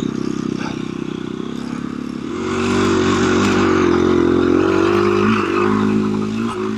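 KTM 350 EXC-F dirt bike's single-cylinder four-stroke engine running at low revs, then opening up on the throttle about two seconds in. The note gets louder and wavers in pitch before easing off slightly near the end.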